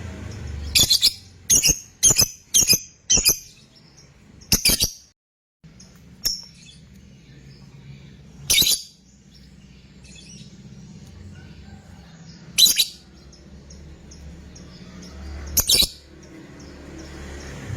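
Fighter lovebird giving sharp, shrill calls: a quick run of about five in the first few seconds, then single calls every few seconds, over a steady low hum.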